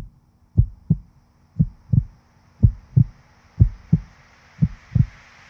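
Heartbeat sound effect: paired low thumps, about one pair a second, with a faint hiss slowly building underneath toward the end.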